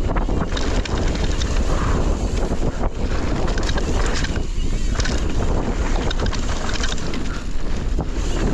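Wind rushing over the camera microphone as a mountain bike rides fast down a dirt jump trail, with tyre noise and many small rattles and knocks from the bike over the ground.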